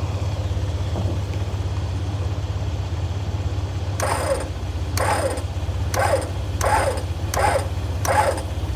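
Jeep engine idling steadily. From about four seconds in, six short sounds come at even intervals, each falling in pitch.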